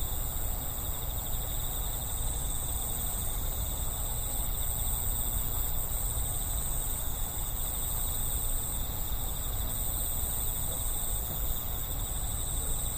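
Night insects trilling steadily in several high, even tones, over a low, steady background rumble.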